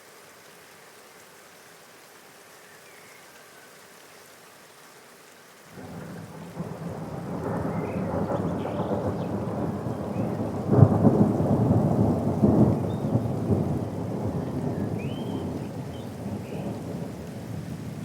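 Steady rain, then about six seconds in a long roll of thunder rumbles up suddenly, with its loudest crack about eleven seconds in, and slowly dies away under the rain.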